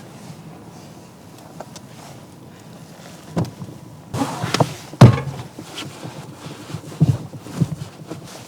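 A few seconds of faint steady hiss, then a string of irregular knocks and thumps, the loudest about five seconds in.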